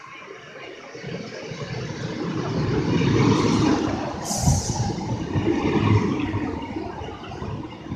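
Class 153 single-car diesel railcar pulling into the platform close by: its diesel engine and wheels on the rails build up, are loudest as it draws alongside, then ease as it slows. A brief hiss sounds about four seconds in.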